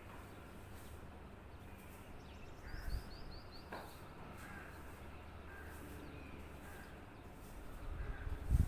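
Birds calling outdoors over a steady low background rumble. About three seconds in comes a quick series of about five high chirps, with scattered fainter calls around it; a louder low rumbling noise builds near the end.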